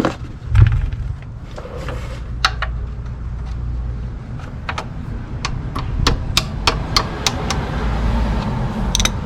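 Ratchet clicking in a run of sharp ticks, about three a second, as the oil drain plug is loosened, over a low steady rumble.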